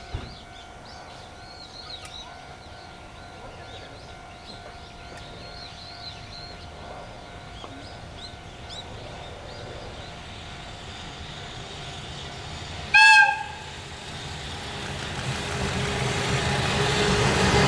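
Small birds chirping faintly, then about 13 seconds in a JR Freight EF210 electric locomotive sounds one short, loud whistle blast. After it the approaching freight train's running noise grows steadily louder, with a steady hum under it.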